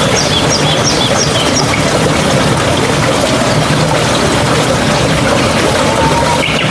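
Steady rushing and gurgling of a mountain stream. A run of about six short high chirps sounds in the first second and a half.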